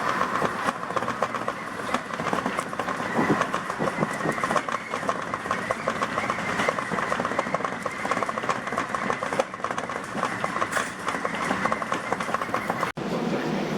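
Tobu Tojo Line train running, with a steady rolling noise and a rapid patter of wheel clicks over the track.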